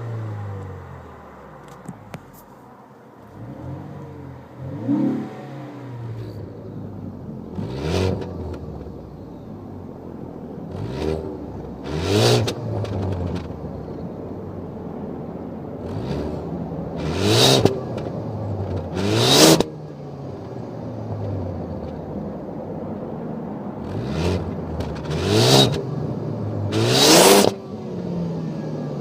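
2013 Ford Focus ST's turbocharged EcoBoost four-cylinder engine being revved in a series of about ten quick blips from idle, the hardest ones near the middle and end, each dropping straight back to a steady idle.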